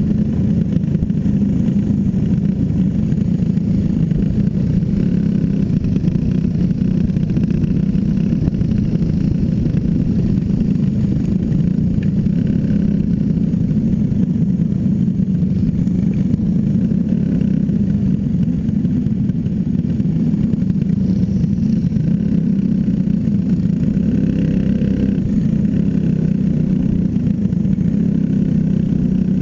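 Racing engine running flat out in a steady, unbroken drone during a heat race.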